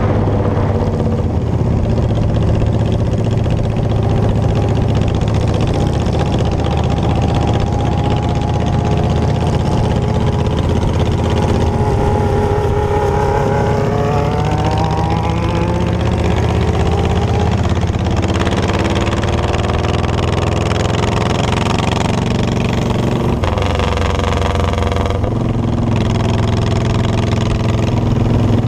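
Motorcycle engine running under way. The revs climb and fall with the throttle, most clearly around the middle and again briefly about two thirds of the way through.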